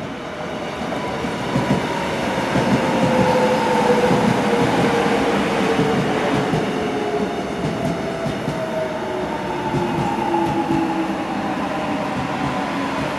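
Gyeongui-Jungang Line electric multiple-unit train pulling into the station close by, its wheels running on the rails. A motor whine falls slowly in pitch as the train slows to stop. The sound builds over the first few seconds and then stays loud as the cars roll past.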